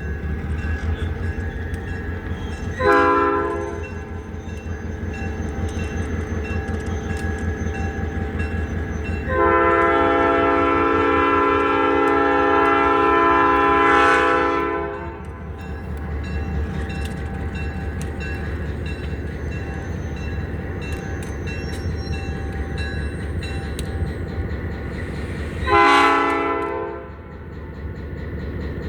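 Locomotive air horn sounding a chord of several notes in three blasts: a short one, a long one of about five seconds, then another short one. A locomotive engine runs steadily underneath.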